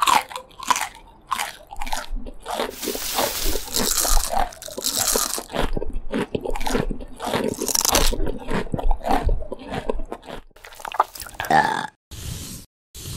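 Dense, irregular crunching and chewing eating sounds as whole crabs, shells and all, are eaten. They stop near the end, and a phone ringtone starts in short, evenly spaced pulses.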